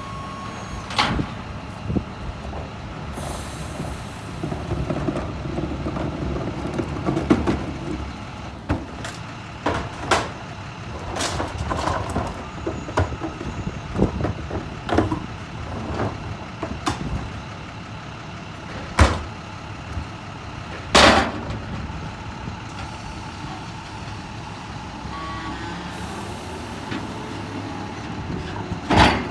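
Garbage truck engine running steadily, with a string of sharp knocks and bangs on top; the two loudest bangs come a little past the middle.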